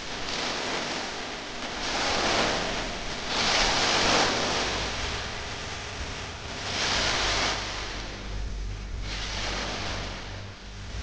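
Ocean surf breaking and washing ashore, the hiss swelling and fading every few seconds, over a low rumble.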